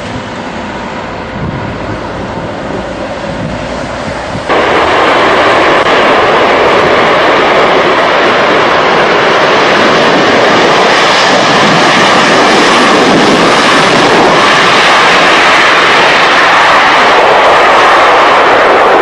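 Jet engines of a British Airways Airbus A380 (Rolls-Royce Trent 900s), a loud steady rushing noise. It jumps abruptly louder about four and a half seconds in, after a quieter start.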